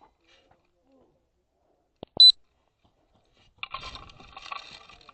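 A single short, high electronic beep about two seconds in, the loudest sound in the stretch, preceded by a small click. Near the end comes about a second and a half of rustling, scratchy noise.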